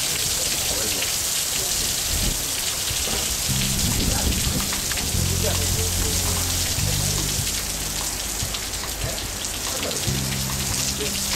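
Heavy rain pouring down steadily as a dense hiss, with a low rumble coming and going from about three and a half seconds in.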